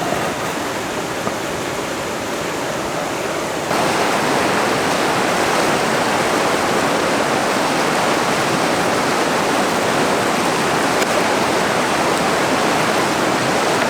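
Steady rain, an even hiss with no separate drops or knocks, that gets louder about four seconds in.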